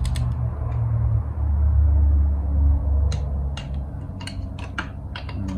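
Ratchet of a torque wrench clicking in quick short runs as the cylinder head bolts of a Suzuki GS1000G engine are run down, starting about three seconds in, over a steady low hum.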